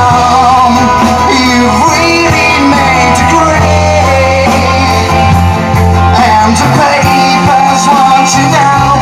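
Live rock band playing: electric guitars and bass guitar over drums, with a sung vocal line.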